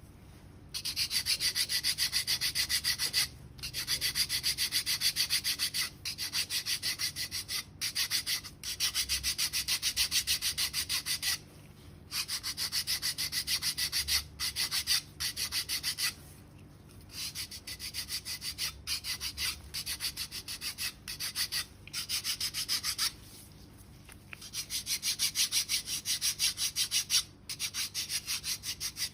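Foot file rasping back and forth over hard, dead skin on the sole in rapid strokes, filing down calluses. It comes in runs of a few seconds broken by short pauses.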